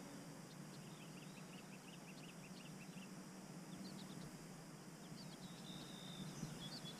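Faint birdsong: quick runs of short, high chirps, one bout about a second in and another through the second half, over a low steady hum.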